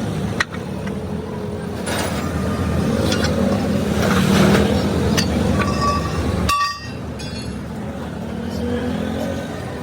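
Motor vehicle engine running amid road-traffic noise, a steady low rumble that swells around the middle, with a brief ringing metallic tone a little after six seconds.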